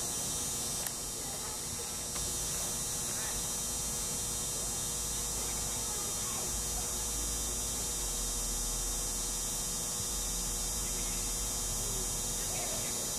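A steady hum over a constant hiss and low rumble, with no distinct events.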